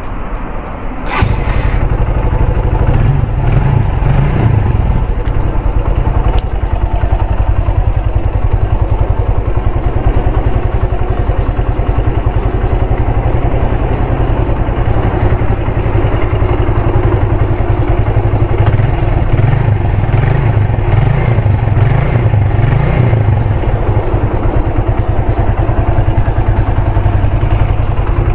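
Suzuki GN125H's 124 cc air-cooled single-cylinder four-stroke engine starting about a second in, then running steadily with a pulsing exhaust beat.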